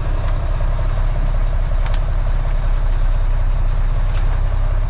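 Freightliner FLD dump truck's diesel engine idling steadily, with a couple of faint clicks about two and four seconds in.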